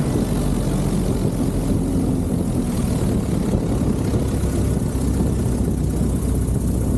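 Single-engine propeller engine of a Cessna 170B light airplane running steadily: a constant low drone.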